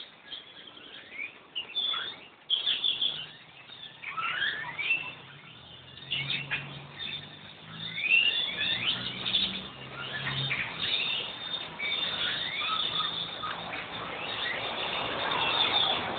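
Hundreds of small birds chirping together in trees, a dense chorus of many short, overlapping high calls that rise and fall, with no pause.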